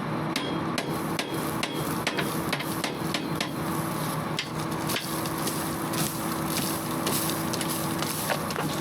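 Irregular sharp metal knocks and clatter as rocks are knocked and pried out of a combine header's cutter bar, over a steady low hum.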